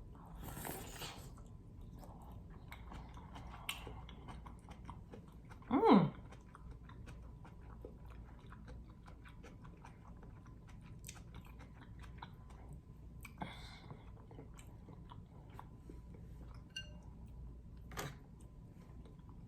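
Close-miked chewing and biting: wet mouth clicks and smacks of eating a garlic-butter seafood boil. About six seconds in comes one brief, louder vocal sound that falls steeply in pitch.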